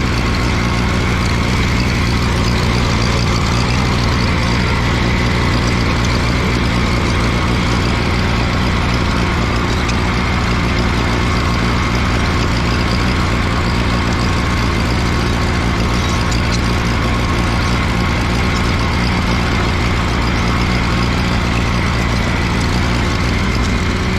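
Allis-Chalmers G tractor's small four-cylinder engine running steadily under load as the tractor pulls a lowered cultivator through the soil in second gear.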